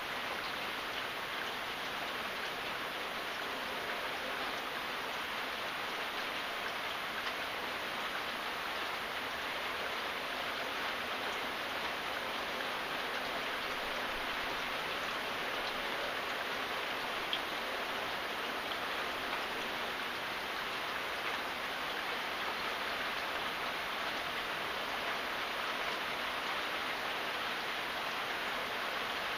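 Steady rain falling, an even hiss of many drops with a few faint single drop ticks.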